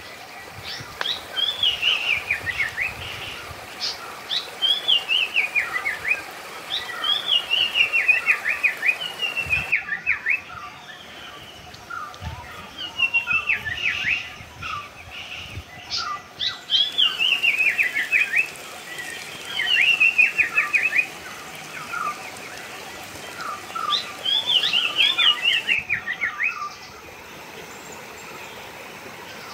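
A bird singing the same song over and over: a quick run of short notes falling in pitch, each phrase about one to two seconds long, repeated every two to three seconds.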